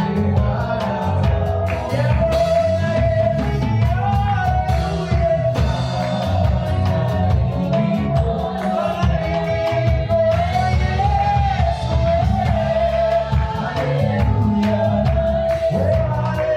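Church worship band playing gospel music with a sung melody over heavy bass and a steady beat.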